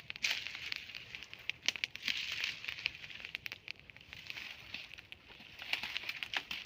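Campfire crackling and popping: a run of irregular sharp snaps.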